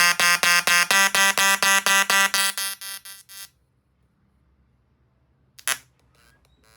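Tesla coil arcs discharging with a loud pulsed electric buzz, about four or five pulses a second, that shifts in pitch and cuts off about three and a half seconds in. A single short buzzing burst follows near the end.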